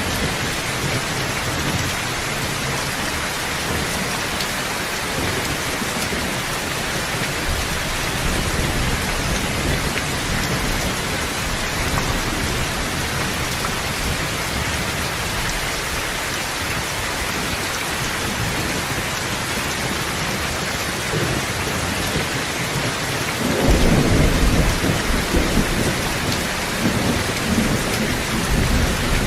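Steady rain falling in a continuous even hiss. Near the end a deep rumble of thunder rolls in and is the loudest sound.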